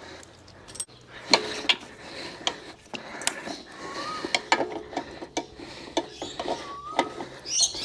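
A spanner working on a Harley-Davidson's fork top nut: irregular metal clicks, ticks and clinks of the tool on the nut and fork.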